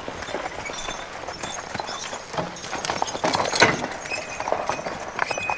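Hooves of a team of draft horses clip-clopping on paved road as they pull a log wagon, with scattered knocks and scuffs, loudest about three and a half seconds in.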